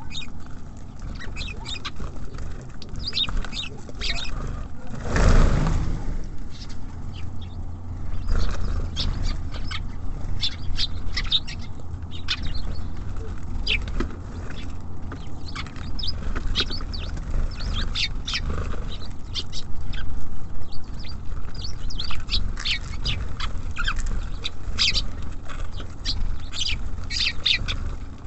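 Small songbirds at a feeder giving many short, high chirps and calls, with a brief whoosh about five seconds in. A steady low rumble runs underneath.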